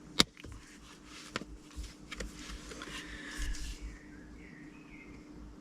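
Two sharp clicks, the first the loudest, then faint rustling and small handling ticks over a steady low hum.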